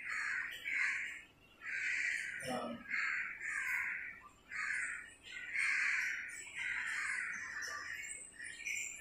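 Birds calling over and over: short, rough calls about every half second to a second.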